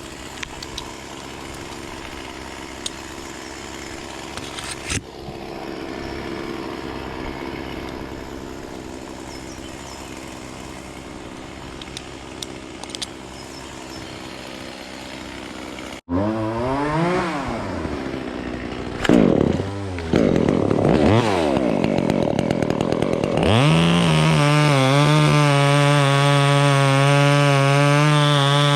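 A chainsaw revved up and down a few times, then held at full throttle for the last several seconds. Before that, in the first half, a steadier and quieter engine hum.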